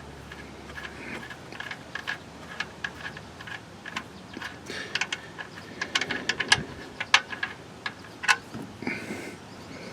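Scattered light metallic clicks and taps at uneven intervals: tools and the oil-pan drain plug being handled during an oil change.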